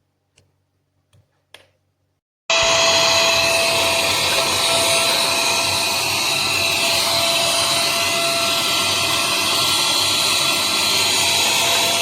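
Tiazhan handheld vacuum and compressed-air blower switched on about two and a half seconds in, its motor running steadily with a whine over a rush of air. A few light clicks come before it.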